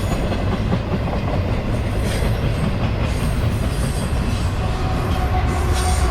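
CSX intermodal freight train rolling past, a steady loud rumble with the clatter of wheels on the rails.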